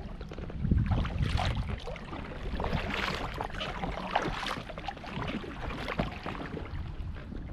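Outdoor noise aboard a fishing kayak: a steady low rumble of wind on the microphone, with irregular splashing and rustling of water and gear.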